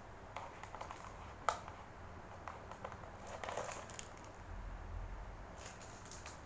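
Plastic packets and packaging from a self-heating hotpot kit being handled: soft crinkling and small clicks, with one sharp click about a second and a half in.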